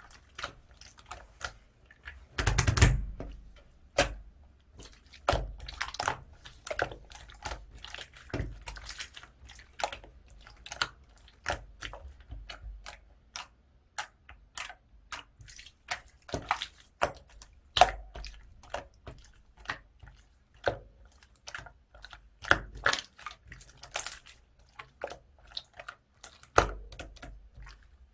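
Clay-mixed slime being squeezed and poked by hand, making an irregular run of sharp wet clicks and small air-bubble pops, with a longer, louder squelch about two and a half seconds in.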